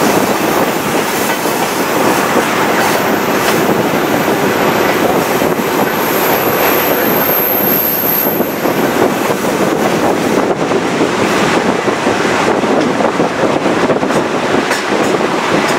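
Chepe passenger train of the Ferrocarril Chihuahua al Pacífico running along the track: a steady rumble and rush of the cars on the rails, with a thin high squeal of the wheels from about three to eight seconds in.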